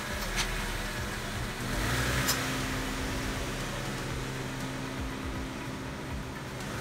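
Honda Civic four-cylinder engine running at low speed as the car reverses out, a steady low hum that grows a little stronger about two seconds in.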